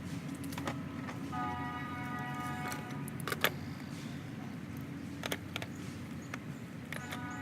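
Home-built wood splitter's engine running steadily, with metallic clicks and, twice, a high whine lasting about a second and a half.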